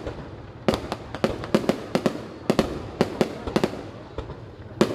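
Fireworks bursting in the air: an irregular series of sharp bangs, some coming in quick clusters, each followed by a short rumbling tail.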